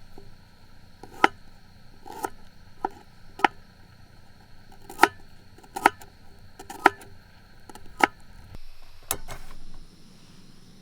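A series of sharp single knocks, about nine of them, spaced unevenly roughly a second apart, over a steady low hum that stops near the end.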